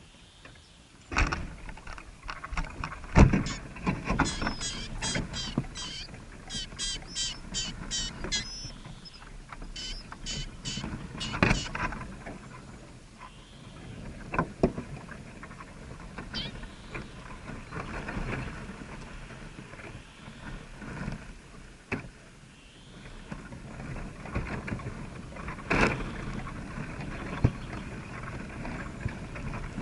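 Knocks, scratches and rustling, with a rapid run of short high chirps from small birds a few seconds in.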